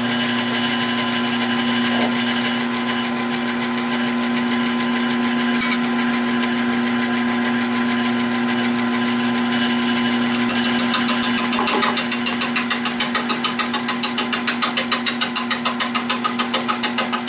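Nova 16/24 wood lathe running with a steady hum while a 5/8-inch bowl gouge cuts the back of a rough, uneven oak blank. From about ten seconds in the cut turns into a fast rhythmic chatter, about five beats a second, as the gouge meets the out-of-round, 'jiggity jaggy' surface.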